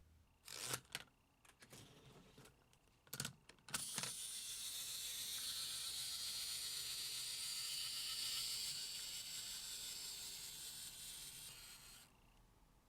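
A few light plastic clicks, then a Hot Wheels die-cast car running along plastic track with an even rolling hiss for about eight seconds that fades away near the end.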